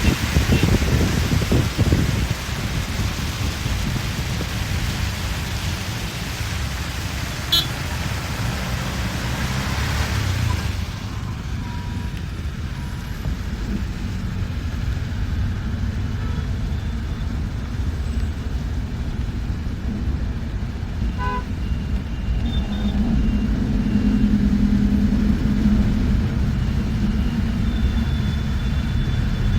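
Moving bus heard from inside: a steady low rumble of engine and road noise, with a loud rushing hiss for the first ten seconds or so that cuts off suddenly. A few short horn toots from the surrounding traffic, and the engine hum grows stronger near the end.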